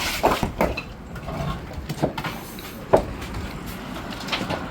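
Irregular knocks and rattles in a truck cab over a rough off-road track, with a low engine running underneath.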